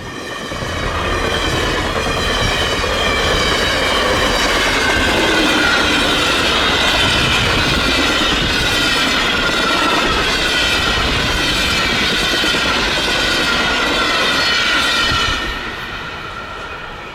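VIA Rail's Ocean passenger cars rolling past at track speed, the wheels clattering on the rails, with high ringing tones that slowly fall in pitch as the train goes by. The sound drops off sharply about fifteen seconds in as the end of the train passes.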